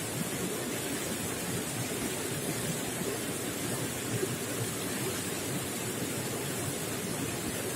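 Running water gurgling and splashing steadily.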